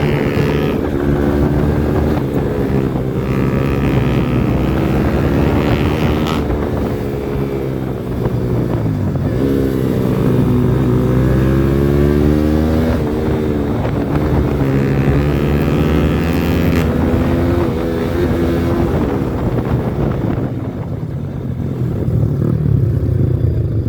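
Yamaha R15 V4's single-cylinder engine through a modified aftermarket exhaust, running loudly while riding. Its pitch repeatedly rises and falls as the throttle is opened and eased off, dipping about eight seconds in and climbing again.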